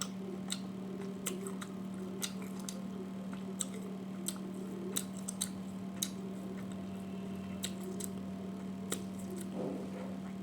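Someone eating a meal of rice and curries: soft chewing with small, sharp, wet clicks coming at irregular moments, over a steady low hum.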